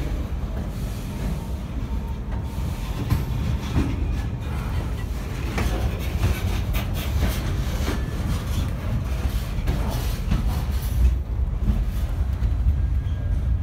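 Freight cars loaded with wrapped lumber rolling past at close range: a steady low rumble from the wheels on the rails, with scattered clicks and clanks.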